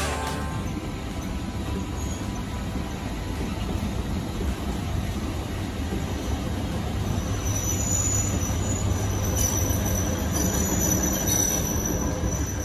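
Alishan Forest Railway train running on its rails with a steady rumble, and a high wheel squeal that sets in about halfway through.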